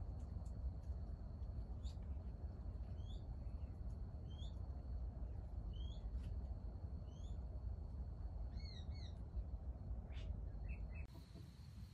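Small wild birds chirping: short high notes about every second and a half, then a quick pair of double calls near the end. A steady thin high tone and a low steady rumble lie underneath.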